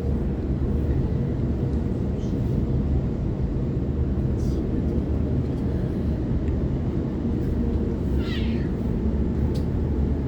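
Waratah electric train running, heard from inside the carriage: a steady low rumble of wheels and running gear, with a brief rising high-pitched sound about eight seconds in.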